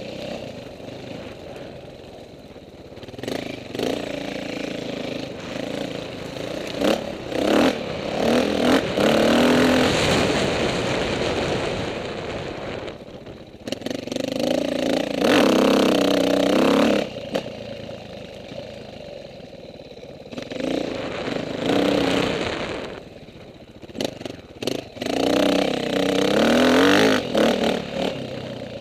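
Dirt bike engine revving up and dropping back, with about four loud swells of rising pitch between quieter running.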